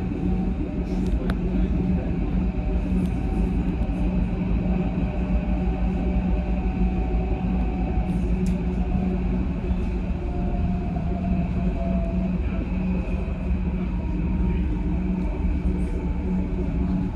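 Berlin S-Bahn electric train heard from inside the carriage while running along the track: a steady rumble of wheels on rails with a constant low hum.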